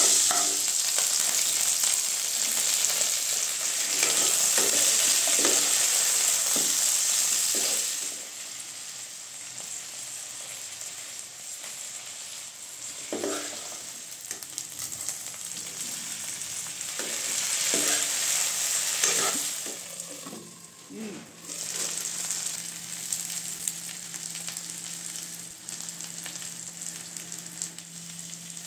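Chicken pieces frying in hot mustard oil in a wok: a steady sizzle, loud for the first eight seconds or so and quieter after, swelling again about two-thirds of the way in. A metal spoon scrapes and knocks against the pan as the pieces, and later onions and chillies, are stirred.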